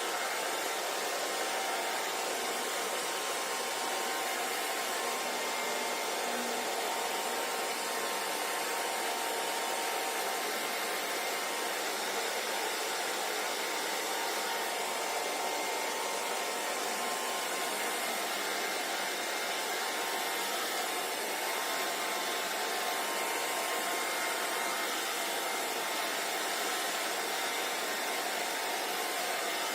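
Hair dryer running steadily: an even rush of blowing air with a faint steady motor hum.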